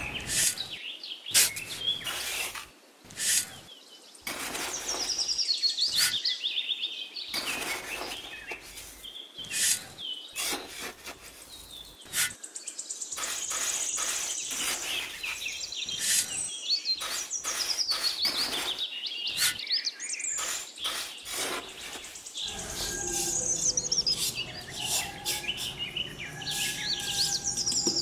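Birds chirping and singing, over the repeated scrape and tap of a small pointed trowel working damp sand-cement mix.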